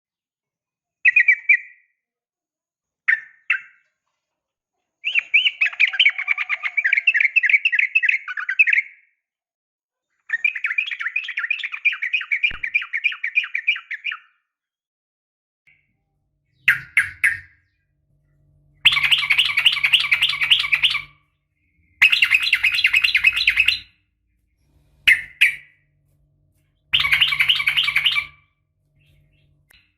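Sooty-headed bulbul (trucukan) calling, the female call used to stir males: short sharp notes and rapid chattering phrases of two to four seconds, repeated with short pauses between them.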